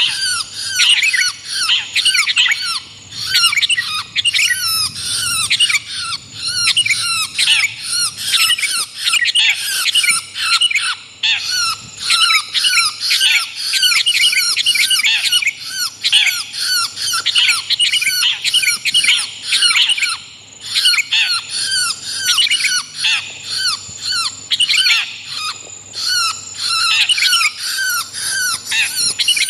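Long-tailed shrike and sooty-headed bulbul calls mixed together as a bird-catching lure recording. Many short, harsh chattering notes follow each other several times a second without a break.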